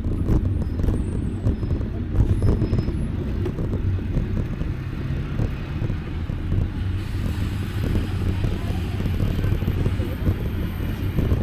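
Wind buffeting the microphone of a camera on a moving bicycle, a loud, constantly fluctuating low rumble. About seven seconds in, a lighter hiss comes in over it.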